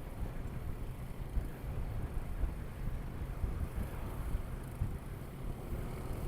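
Wind rushing and buffeting over the action camera's microphone on a moving motorcycle, a steady low rumble with the motorcycle's running and road noise mixed in.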